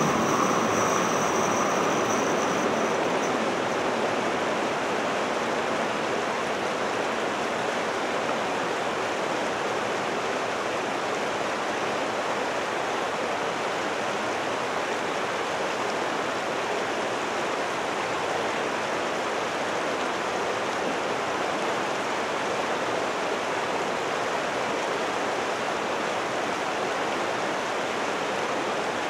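A passing train fading away over the first few seconds, leaving a steady rushing noise.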